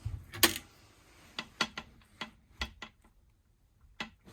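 A run of sharp clicks and light knocks from a hinged galley lid or flap being handled and lifted; it will not stay up on its own. The loudest knock comes about half a second in, there is a pause of about a second near the end, then one last click.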